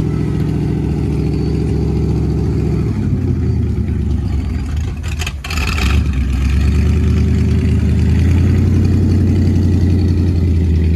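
A motor vehicle engine running loud and close. It dips briefly about five seconds in, with a short burst of hiss, then runs on louder and deeper.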